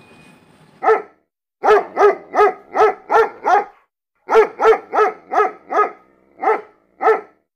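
Dog barking repeatedly: about fourteen short barks, mostly in quick runs of roughly three a second.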